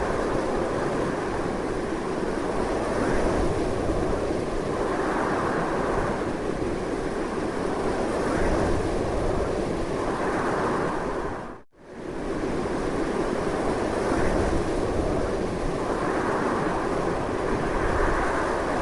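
Strong wind blowing steadily, swelling and easing in slow gusts. About two thirds of the way through it drops out to near silence for a moment and fades back in.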